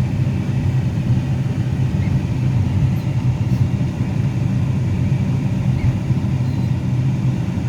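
Steady low rumble of a Subaru driving slowly down a snow-covered road, heard from inside the cabin: engine and tyre noise.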